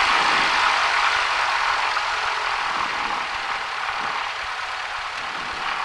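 Cessna 172's engine running at low rpm after the run-up, throttled back to 1000 rpm: a steady drone in the cabin that eases slightly.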